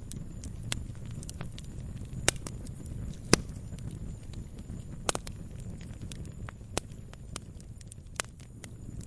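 Campfire crackling: irregular sharp pops and snaps over a low steady rumble of the burning fire, the loudest pop a little past three seconds in.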